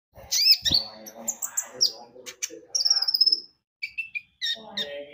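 Brown-throated sunbird (konin, 'kolibri ninja') singing a rapid, varied run of high chirps and short whistled slurs, with a held whistle about three seconds in.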